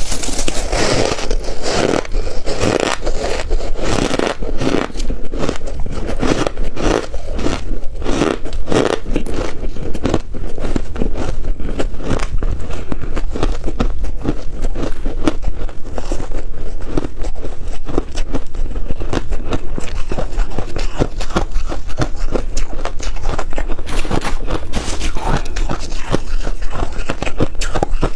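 Freezer frost being bitten and chewed close to the microphone: a dense, loud run of crisp crunches and crackles.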